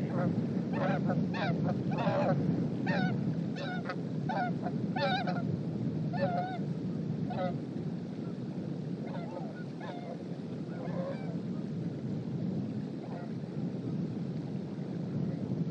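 Geese honking in a run of repeated calls that thin out and stop about two-thirds of the way through, over a steady rush of strong wind.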